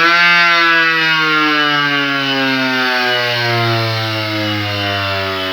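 Washing-machine motor driving a homemade bench grinder, turned up to high speed with a light-dimmer speed regulator: a loud motor whine that peaks right at the start and then slowly sinks in pitch.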